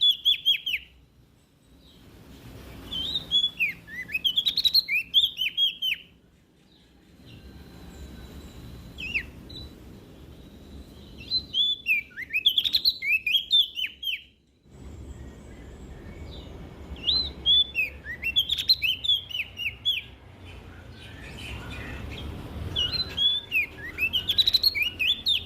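Prenjak daun (cikrak daun, a small leaf warbler) singing in bright, rapid phrases of short downward-slurred whistled notes, about five bursts separated by short pauses.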